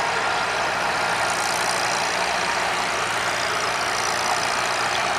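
Antique tractor engine running steadily, with no change in speed.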